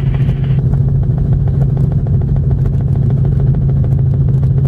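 Helicopter rotor and turbine heard inside the cabin: a steady, loud drone with a fast, even chop from the blades.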